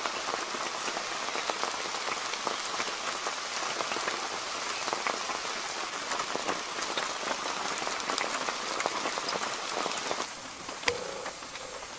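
Steady rain falling, with many separate drops tapping close by. About ten seconds in it drops to a quieter patter.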